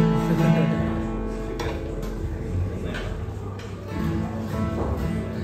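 Acoustic guitar picked and strummed loosely: a chord rings out and fades, a few low notes follow, and another chord comes in near the end.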